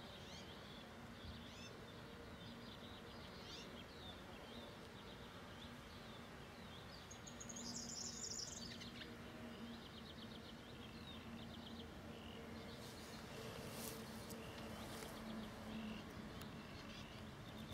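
Small birds chirping faintly and repeatedly, with a brighter, higher burst of chirping about seven seconds in, over a steady low hum.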